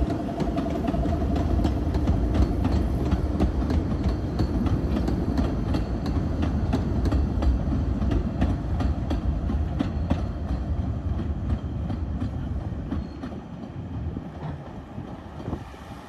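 Narrow-gauge passenger train rolling past, its coach wheels clicking steadily over the rail joints over a low rumble. The sound fades over the last few seconds as the train moves away.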